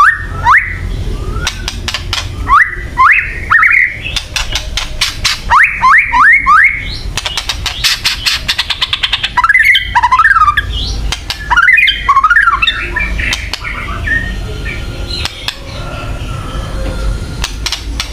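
White-rumped shama (murai batu) giving harsh rattling 'kretekan' calls, rapid trains of clicks, broken by groups of three or four short rising whistled notes and, about ten seconds in, twisting warbled phrases. A steady low hum runs underneath.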